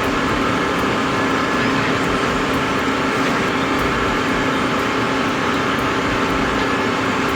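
A heavy machine running steadily: constant engine and mechanical noise with a steady hum.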